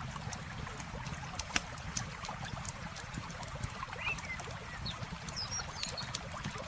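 Campfire crackling, with frequent sharp pops, over a low, steady rush of running water. A few short bird chirps come about four seconds in and again about five and a half seconds in.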